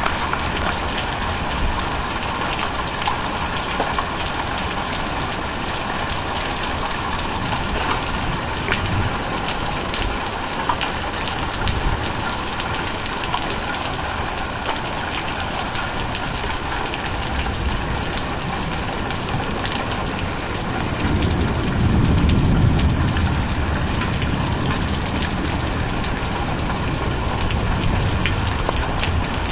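Heavy rain mixed with small pea-size hail, a steady hiss dotted with many sharp little hits. A low rumble of thunder swells about two-thirds of the way through.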